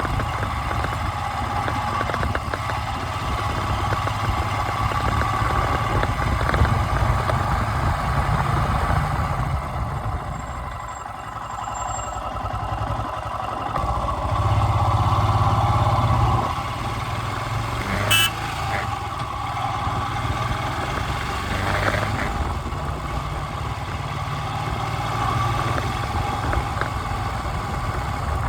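A vehicle engine running steadily, with a low rumble that dips briefly about ten seconds in, and one sharp click about eighteen seconds in.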